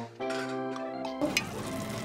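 Light background music; a little over a second in, hamburger steak patties start sizzling steadily in a frying pan, cooking in the water they were covered with to steam.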